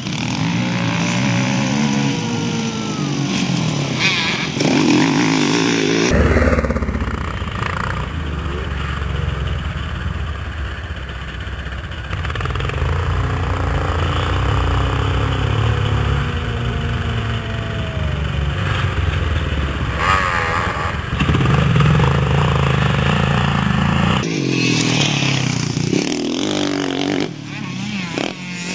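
Motocross bikes' engines revving up and down as they ride the track. The sound changes abruptly about six seconds in and again near the end, as if from separate cuts.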